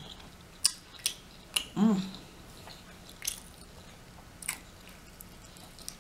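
Close-up mukbang eating sounds: a person chewing with scattered wet mouth clicks and smacks, and one short hum about two seconds in.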